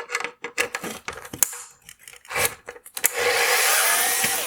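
Hard plastic parts of a car tail-light housing being handled: a run of clicks and short scrapes, then about three seconds in a steady, loud scrape of plastic rubbing against plastic lasting about a second and a half.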